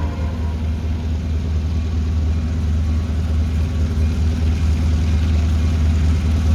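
Diesel locomotive engine running with a steady low rumble as a train is at the crossing, between blasts of its horn.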